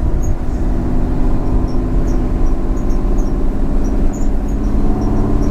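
BMW M50B25 2.5-litre straight-six running at low revs through Schmiedmann stainless headers and a 3-inch stainless exhaust with small silencers: a loud, steady, deep exhaust note.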